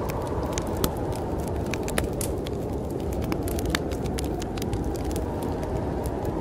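Wood fire crackling in a fireplace, with irregular sharp pops and snaps over a steady low rush of storm wind.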